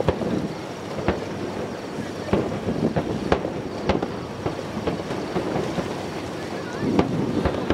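Aerial fireworks shells bursting in a string of sharp bangs, roughly one a second, over a steady background din.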